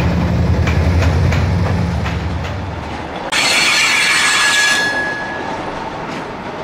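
A diesel locomotive running slowly past, its engine a low, steady drone with wheels clicking over rail joints. About three seconds in, this gives way to a freight train rolling by. Its wheels give a high screech and a held squeal for about a second and a half, then settle into a lighter rolling clatter.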